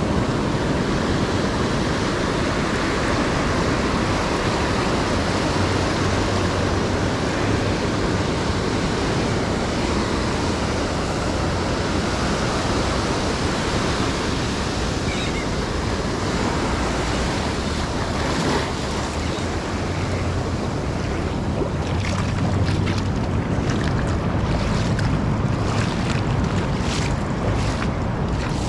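Ocean surf breaking and washing up the beach, a steady rush, with a few sharp ticks near the end.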